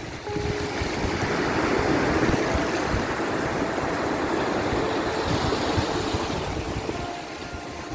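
Sea waves breaking on a shore: a steady rushing surf that swells about a second in and eases off near the end.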